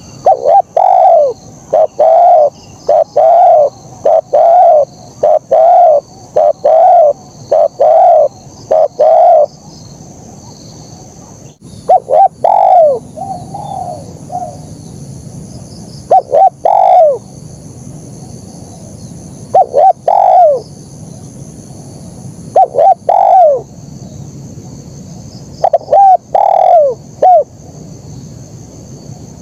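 Spotted dove (terkukur) cooing: a quick run of coos for the first nine seconds or so, then short phrases of two or three coos every few seconds. A steady high-pitched chirring runs underneath.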